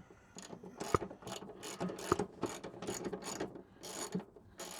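Hand ratchet with a 30 mm socket and extension bar clicking in short strokes, a run of irregular sharp clicks, as a bolt is wound out by hand.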